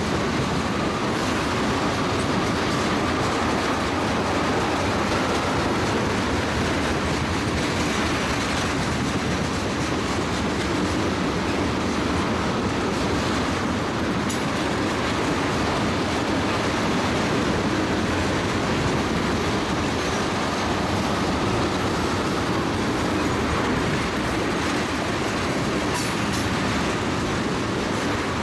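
Tank cars of a BNSF crude-oil freight train rolling past, a steady, unbroken rumble of steel wheels on rail.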